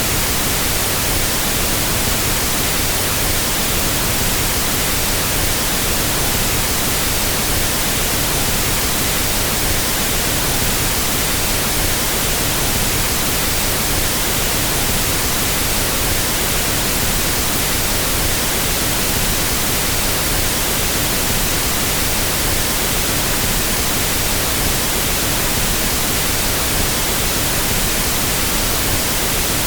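Pink noise test signal: a steady, even hiss across the whole audio range with no change, used for equalizing sound systems.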